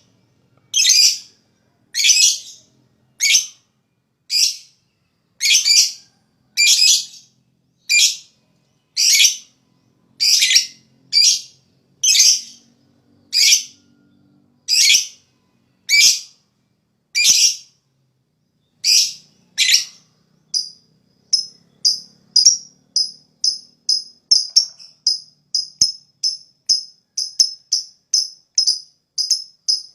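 Lovebird calling: shrill chirps about once a second, then, about two-thirds of the way through, a quicker run of short, clipped chips, two or three a second.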